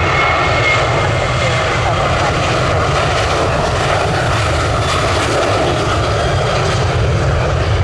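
Jet airliner engines at high power, a loud, steady noise with a heavy low rumble.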